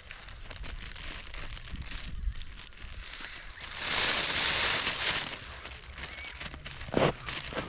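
Rustling and crinkling handling noise, with a loud rushing hiss lasting about a second and a half in the middle and a dull thump near the end.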